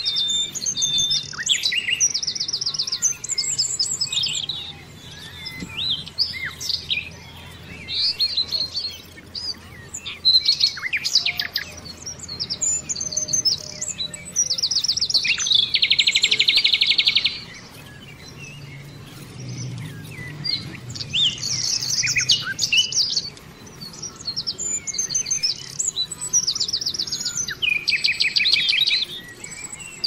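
Birds chirping and singing, with many short chirps and two longer rapid trills, one about halfway through and one near the end.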